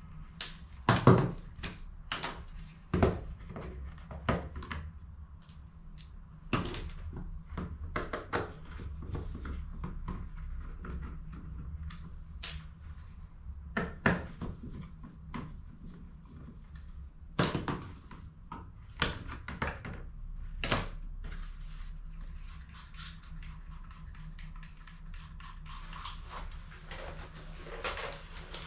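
Irregular sharp plastic clicks and knocks from HP CE285A toner cartridge parts being handled and set down on a workbench, the loudest knock about a second in. A low steady hum runs underneath.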